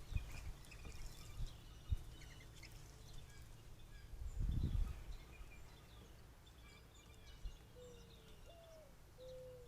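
Many small birds chirping and calling while feeding, with several low thumps in the first two seconds and a brief low rumble about four and a half seconds in. Near the end come a few short, low, evenly pitched calls.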